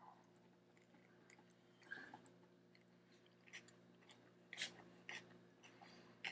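Faint close-up chewing of a mouthful of taco: soft, scattered wet clicks and smacks, the loudest about halfway through, over a low steady electrical hum.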